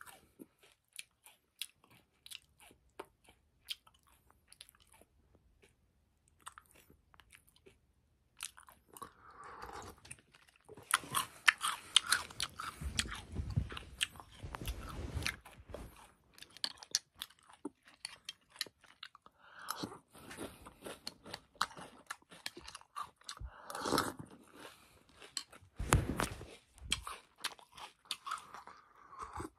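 Close-up crunching and chewing of frosted corn flakes soaked in milk. It starts as scattered small crunches, then comes in dense bursts of mouthfuls about a third of the way in and again near the end.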